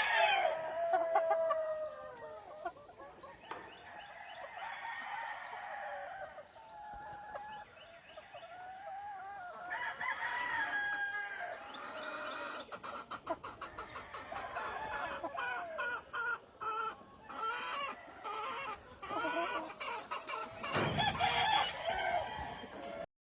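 Gamefowl roosters crowing and clucking, several birds calling one after another; the loudest crow comes right at the start, with more crows about ten seconds in and near the end. The sound cuts off abruptly just before the end.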